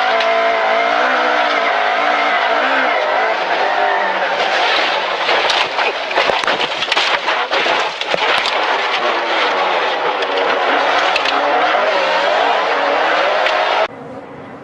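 Car engine running and revving, then several seconds of knocks, crunching and tyre noise typical of a crash, then the engine again. The sound drops off abruptly near the end.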